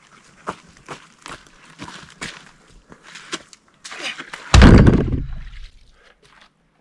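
Irregular footsteps and light taps, then one loud heavy thump about four and a half seconds in, with a low rumble dying away over about a second.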